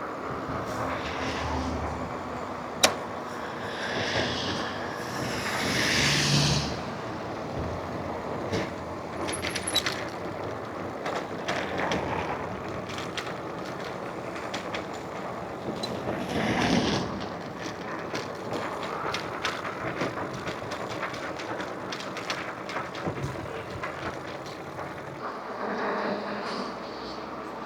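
Electric bike ridden along a road, heard from a camera on the bike: steady rushing wind and tyre noise with frequent small rattles and knocks from the bike over the road surface, rising to louder rushes a few seconds in and again about halfway through.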